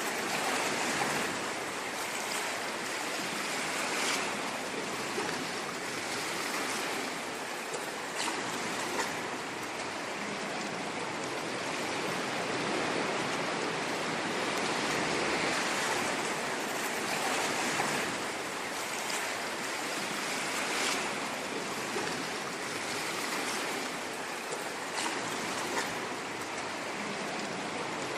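Ocean surf: a steady hiss of waves washing in, swelling and easing gently every few seconds, with brief splashy crackles now and then.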